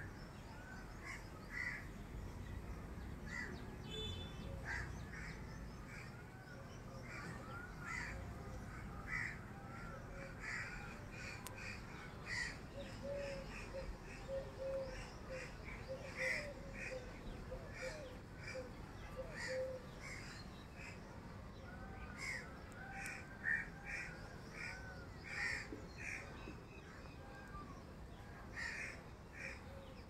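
Birds calling, many short calls one after another, over a steady low background noise.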